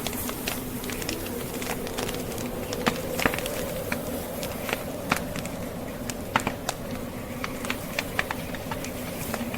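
Log fire crackling, with irregular sharp pops and snaps scattered throughout, a few louder than the rest, over a steady rushing of blizzard wind with a faint low drone.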